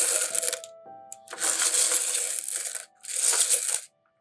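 Pieces of rough seam opal clattering and scraping against each other as they are moved about, in three bursts of a second or so each with short silent gaps between.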